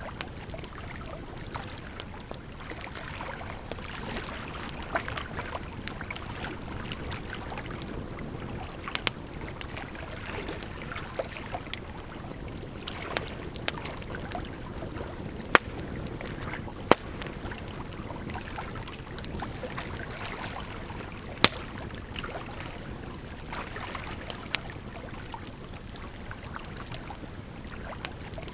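Firewood burning with irregular crackles and sharp pops, the loudest a little past halfway, over a steady rush of flowing water.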